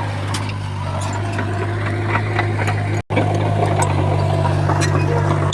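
Heavy diesel earthmoving machine engine running steadily, with scattered light clanks. The sound drops out for an instant about three seconds in.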